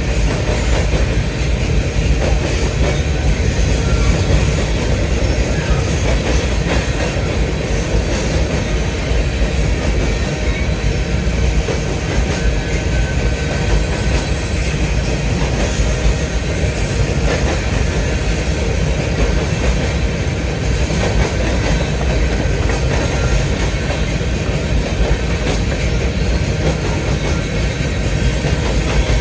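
Freight cars of a grain train rolling past, a steady loud rumble of steel wheels on the rails.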